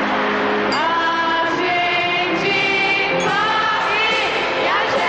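Soul song opening: several voices sing long held notes in harmony, sliding into each note, over the band, from about a second in.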